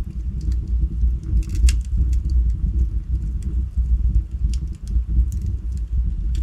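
Wood fire in a fireplace burning with a steady low rumble, crackling with scattered sharp pops and a quick run of several pops about a second and a half in.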